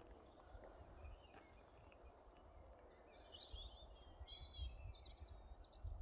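Faint woodland birdsong: short high chirps and warbling phrases, mostly in the middle stretch, over a low rumble.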